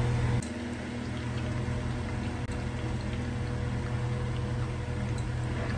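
Prawns frying in hot oil in a kadai: a steady sizzle with a few faint pops, over a low steady hum that drops in level about half a second in.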